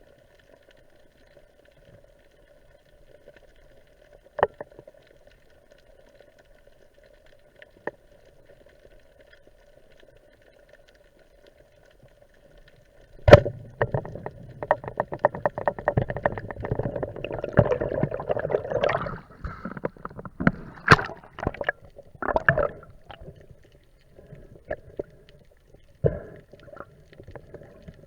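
Water splashing and gurgling close to the microphone: a faint steady hum with a few clicks at first, then about halfway a sharp knock followed by dense, irregular crackling and splashing.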